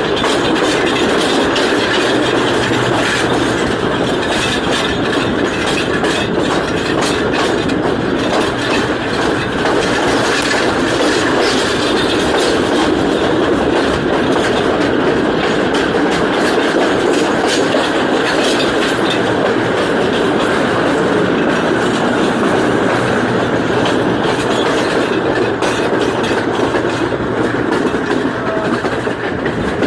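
Passenger train running along the track: a steady loud rumble of wheels on rail with a scattering of clicks from the rail joints.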